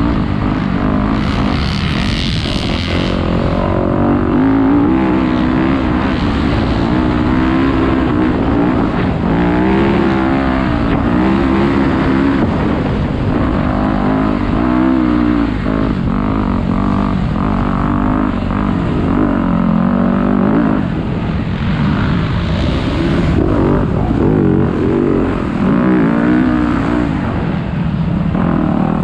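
Dirt bike engine revving up and falling back again and again as it is ridden hard, its pitch climbing and dropping every second or two, with wind rush throughout.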